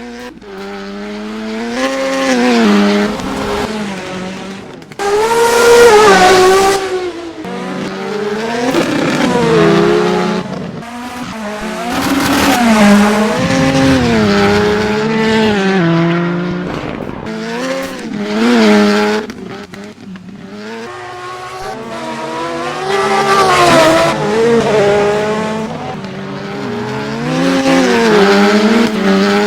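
Rallycross cars racing past, their engines revving up and down through gear changes in repeated surges. The loudest pass comes about six seconds in.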